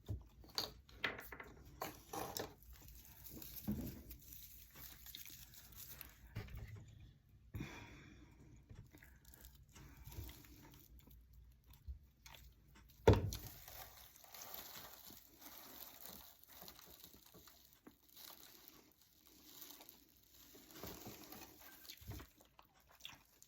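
Faint rustling and crinkling of dry raffia 'hay' being handled and pressed into place, with scattered small taps and one sharp knock a little past halfway.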